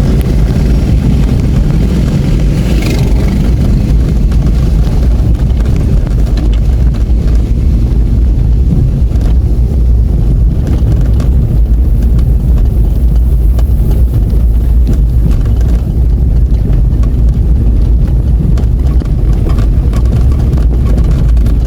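A motor vehicle driving, with a steady low engine and road rumble and scattered small knocks and rattles.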